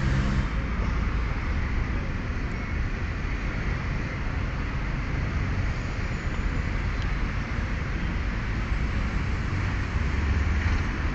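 Steady low rumble of road traffic noise.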